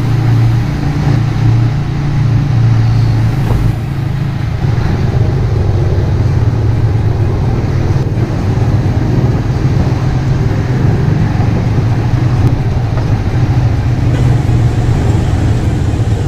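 Yamaha Vixion motorcycle's single-cylinder engine running steadily.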